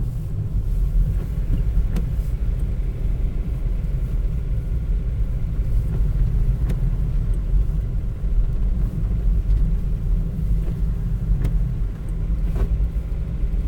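Car driving slowly on a snow-covered road, heard from inside the cabin: a steady low road and engine rumble, with a few faint ticks.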